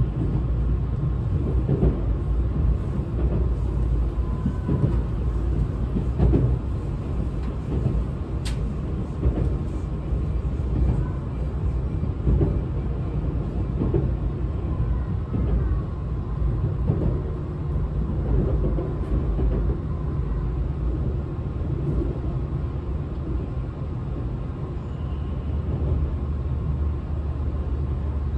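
Running sound inside a Tobu 200 series limited express car: a steady rumble of wheels on rail with knocks from rail joints every second or two. About halfway through a faint whine falls in pitch. Near the end the train is drawing in alongside a station platform.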